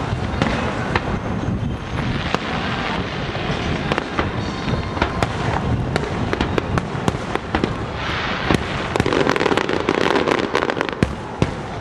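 Aerial fireworks bursting in a continuous barrage of booms and sharp bangs, with a dense flurry of rapid cracks about eight seconds in that lasts some three seconds.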